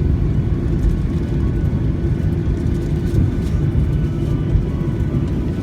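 Airplane noise during landing: a steady low rumble with a constant hum.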